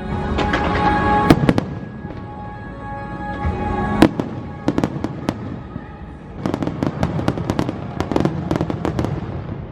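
Theme-park fireworks show: aerial shells bursting with sharp bangs and crackles, thickest in a rapid flurry over the last three seconds, over the show's orchestral soundtrack playing from loudspeakers.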